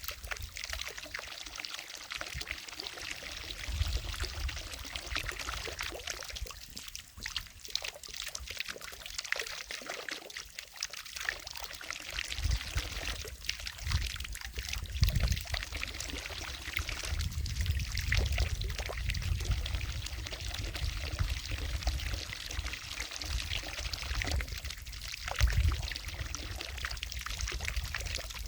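Water falling from a fountain and splashing into a lake: a steady pouring hiss, with low rumbles swelling and fading now and then.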